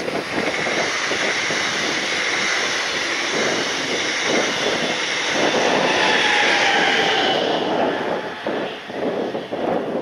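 Diesel-hauled regional push-pull train passing at speed, cab car first: a steady rush of wheels on rail. It is loudest about six seconds in, as the Bombardier Traxx Br245 diesel-electric locomotive pushing at the rear goes by with a tone falling in pitch. The sound dies away about eight seconds in, leaving gusts of wind on the microphone.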